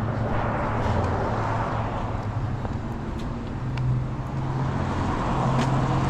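Car driving, heard from inside the cabin: a steady engine hum under road noise, the hum stepping slightly higher about four seconds in.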